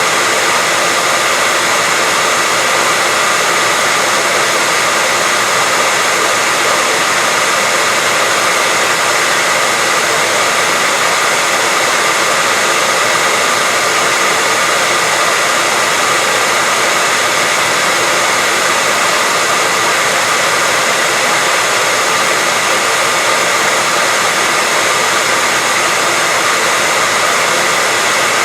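Hair dryer running steadily: an even blowing rush with a faint steady whine, unchanging throughout.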